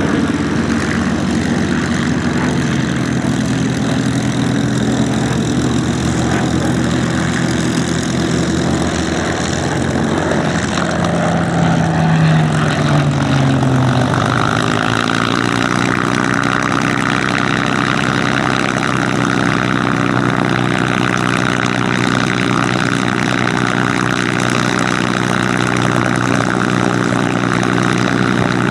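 Rolls-Royce Merlin V12 engines of taxiing warbirds, running steadily at low power. About halfway through, one engine note slides down in pitch, then the running settles to an even hum.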